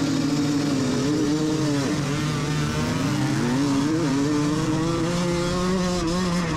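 Vintage 125 cc two-stroke motocross bike engines revving, the pitch rising and falling.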